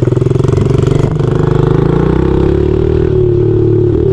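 Honda 70cc single-cylinder four-stroke dirt bike engine running at low revs with a pulsing beat, then a click about a second in, after which it revs up and holds a steadier, higher note.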